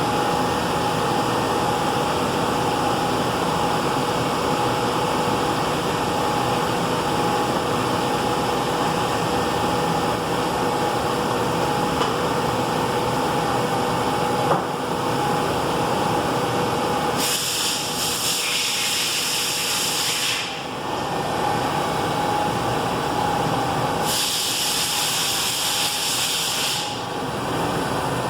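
Bridgeport Romi EZ Path SD CNC lathe running a roughing cycle: a steady machine hum with a whine. About two-thirds of the way in, loud hissing spray starts and stops in bursts of about three seconds each, twice, and comes back right at the end.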